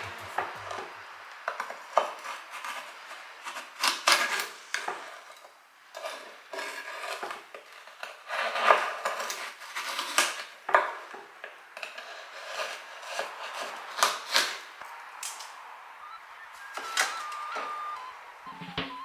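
Kitchenware being handled: dishes and utensils clinking, tapping and scraping in irregular, scattered knocks.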